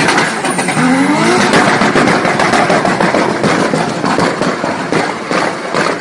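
Turbocharged car's exhaust firing a rapid string of crackling pops and bangs, typical of an anti-lag system or two-step launch limiter, with a brief engine rev about a second in. It gradually fades toward the end.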